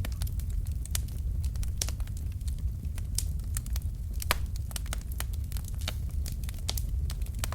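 Wood fire burning in a fireplace: irregular sharp crackles and pops of the burning logs, several a second, over a steady low rumble of the flames.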